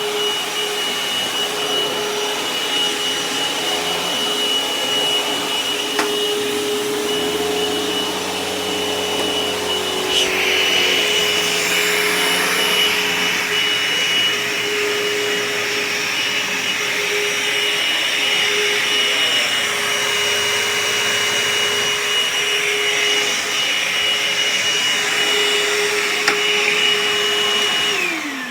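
Dirt Devil Envision Turbo upright vacuum cleaner running on carpet, a steady motor whine over a rushing hiss; a click about ten seconds in, after which the hiss grows a little brighter. Near the end it is switched off and the motor winds down, its whine falling in pitch.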